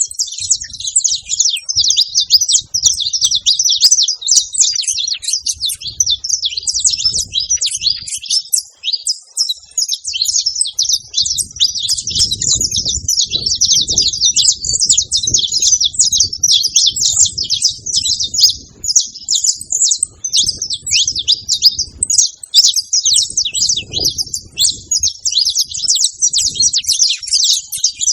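Saffron finches singing, a dense, unbroken stream of rapid high chirps and trills.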